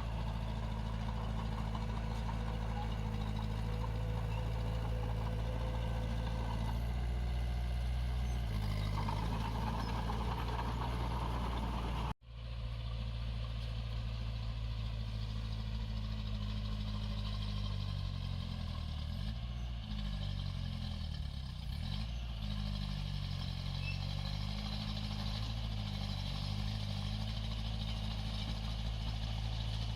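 Diesel engine of a small Komatsu D21 bulldozer running steadily under work. The sound cuts out for an instant about twelve seconds in, and from about seventeen seconds the engine pitch rises and falls several times.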